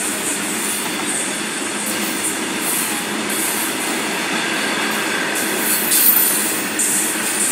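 Coal-laden BOXN open wagons of a freight train rolling past: a steady, loud rumble and clatter of steel wheels on rail, with some wheel squeal, loudest briefly about six seconds in.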